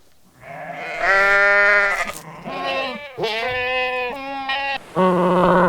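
Farm animals bleating: about five long, wavering bleats follow one another, the one about a second in the longest.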